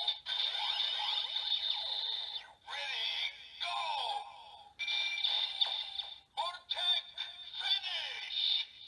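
Kamen Rider Build DX toy's electronic voice announcements and sound effects from its small built-in speaker, heard when the Rhino and Dryer Fullbottles are used. They come as several short bursts with brief gaps, full of falling-pitch electronic tones.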